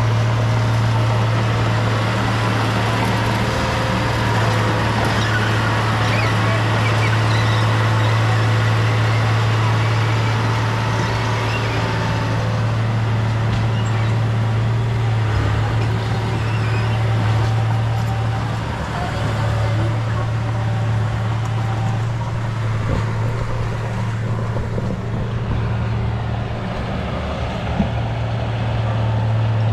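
Bulldozer's diesel engine running steadily with a deep, even drone, with a single short knock near the end.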